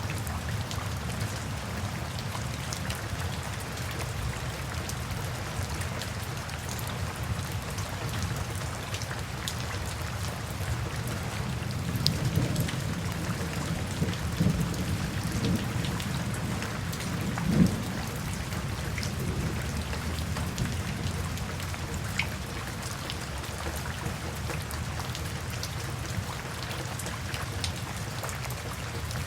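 Steady rain falling, with a low rumble of thunder swelling through the middle and peaking a little past halfway.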